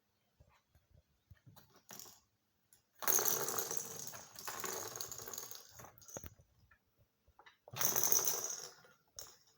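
A cat's toy ball rolling and rattling across a hard floor in two long bursts, the first about three seconds in and the second near the end, with a few light knocks before them.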